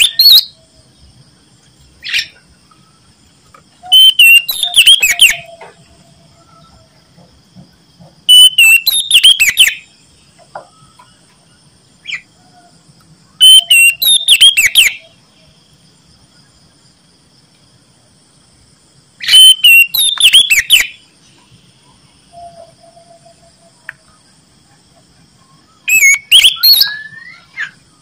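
Oriental magpie-robin (kacer) singing loud bursts of rapid, sweeping whistled phrases, each a second or two long, repeated about every five seconds. Faint steady high-pitched tones run behind it.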